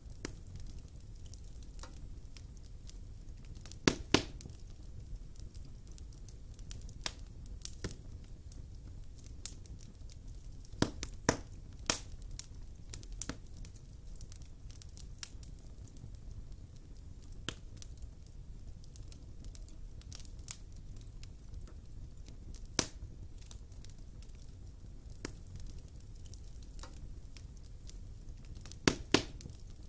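Wood fire burning in a fireplace: a steady low rumble with scattered sharp crackles and pops, loudest in quick pairs a few times.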